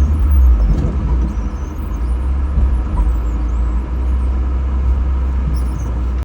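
BMW E36 being driven: a steady low rumble of engine and road.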